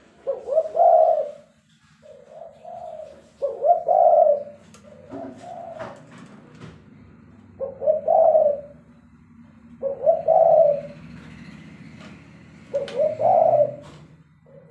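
Spotted doves (tekukur) cooing: about six coo phrases, one every two to three seconds, over a faint steady low hum.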